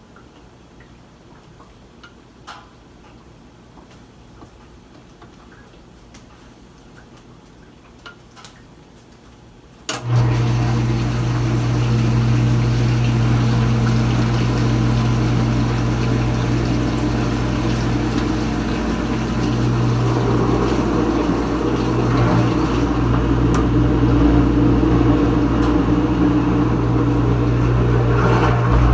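Kenmore Ultra Wash 3 dishwasher during its rinse: for about ten seconds only faint drips and ticks, then its pump motor starts abruptly with a steady hum and the rush of water inside the tub.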